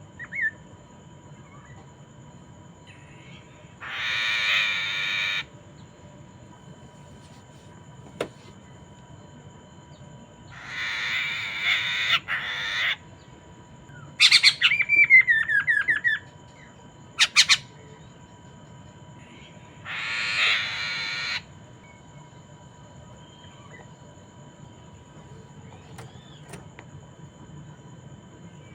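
Poksay mandarin, a laughingthrush, calling: three harsh, rasping calls of about a second and a half each, about 4, 11 and 20 seconds in, and between them a run of loud falling whistled notes with a short sharp note just after. Faint steady high tones sit underneath throughout.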